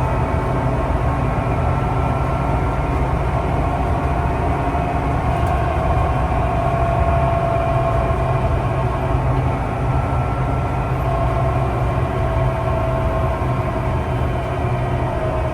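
Steady running noise of a public-transport vehicle heard from inside while it is moving: a constant low hum with a whine that slowly drifts in pitch.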